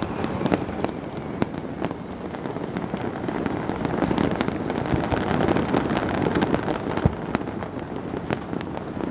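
Fireworks and firecrackers going off all around: a continuous dense rumble of distant bursts with many sharp cracks and pops at irregular intervals.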